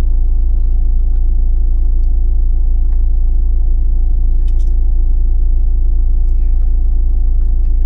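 Vehicle engine running steadily, a constant low rumble heard from inside the cab, with a few faint clicks and rustles.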